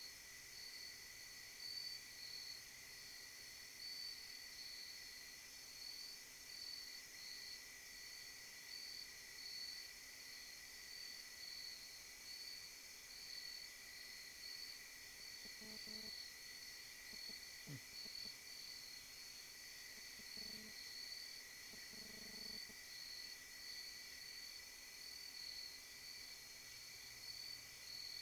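Night insects trilling in a steady chorus: a high, evenly pulsing trill over a lower steady trill. A few faint, brief low sounds come past the middle.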